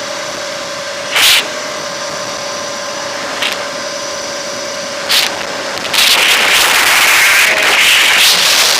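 Throne SRPNT electric motorcycle's motor whining at a steady pitch under wind hiss on the microphone, with a few short gusts. About six seconds in, loud wind rush on the mic takes over and the whine is lost under it.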